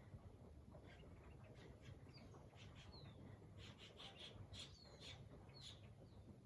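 Faint birds chirping: many short calls and a few quick downward-sliding notes, growing busier about halfway through, over a low background rumble.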